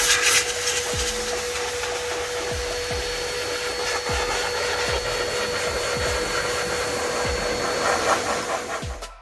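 Adam's Air Cannon electric car-drying blower running steadily with a constant whine and a rush of air. It cuts off abruptly near the end.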